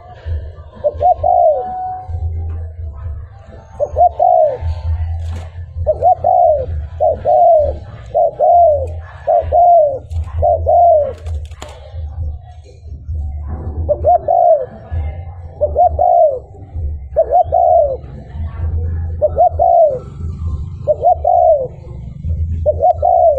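Spotted dove cooing: a long series of short, arched coo notes, about one a second, in runs with a short break about halfway through. A low rumble runs underneath.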